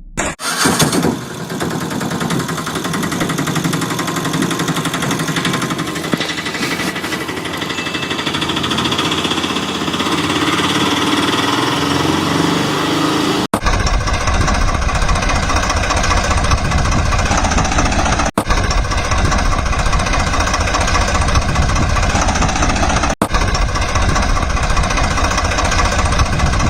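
Engine running with a clattering rumble, in several stretches joined by abrupt cuts; from about halfway on it runs heavier and deeper.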